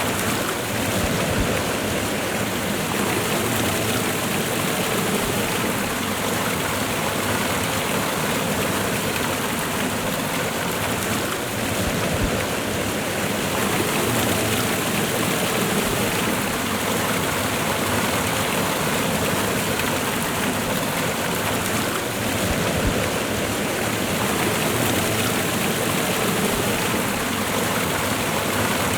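Waterfall and fast-running river water rushing steadily, a dense even roar of water.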